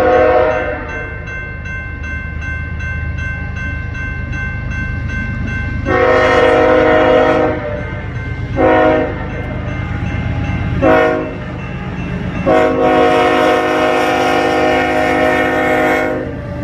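Diesel freight locomotive's multi-chime air horn sounding a crossing signal over the steady low rumble of the passing train. One long blast ends just after the start, another comes about six seconds in, two short blasts follow, and a final long blast lasts about three and a half seconds.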